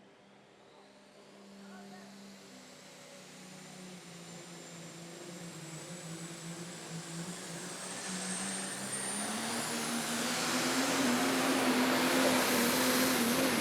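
Dodge super stock diesel pulling truck under full power pulling the sled, its engine note growing steadily louder through the run, with a thin high whine above it. In the last few seconds the engine pitch wavers up and down.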